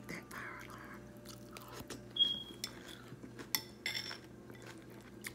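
Close-up chewing of a mouthful of frosted corn flakes in milk: irregular crunches with wet mouth sounds, and a brief high squeak about two seconds in.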